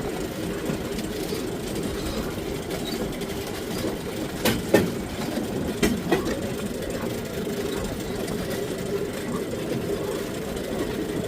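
Pedal-powered rail bike's steel wheels rolling on the rails with a steady rumble, and a few sharp clacks about halfway through.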